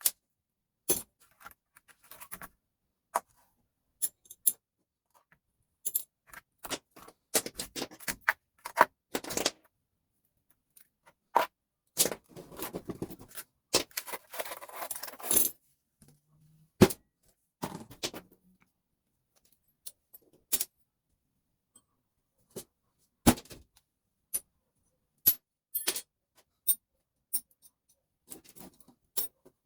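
Small metal parts of a fuse switch clinking and dropping as it is taken apart by hand: scattered sharp clicks and clinks, with a few seconds of scraping and rattling about halfway through.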